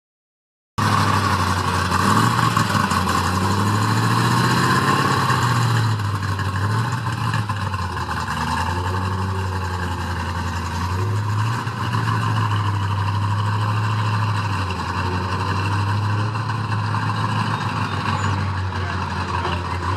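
Show cars driving past at low speed, their engines running with a deep note that rises and falls as they accelerate and ease off. It starts after a short moment of silence.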